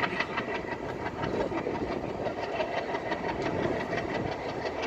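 Passenger train running along the track, heard from inside a carriage: a steady rumble with quick clicks and rattles from the wheels and coaches.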